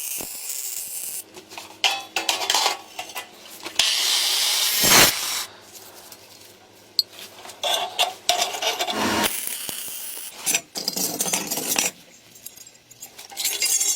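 Irregular handwork noises: scraping, rubbing and small clicks of tools and materials being worked, with a few longer hissing rasps.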